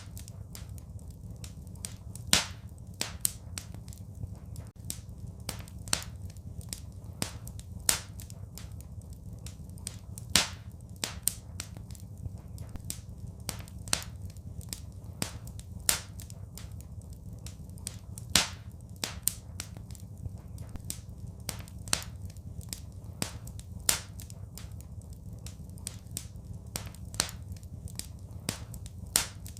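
Wood fire crackling in a fireplace: sharp pops and snaps at irregular intervals, a few much louder than the rest, over a steady low rumble.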